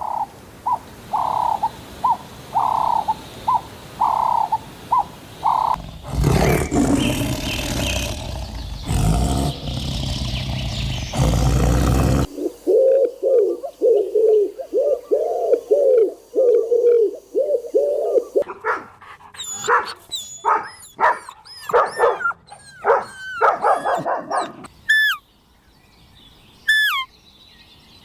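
A run of different animal calls, one after another with abrupt changes. First a row of short repeated calls, then several seconds of rough, noisy sound, then a fast run of rhythmic calls, and finally scattered bird chirps and short falling whistles.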